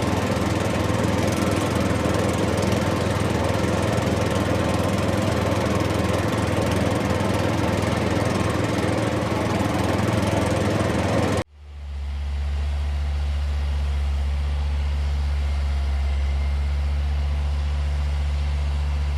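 Engine noise: a rough, buzzing engine runs steadily for about eleven seconds, then cuts off abruptly and gives way to a low, steady idling hum.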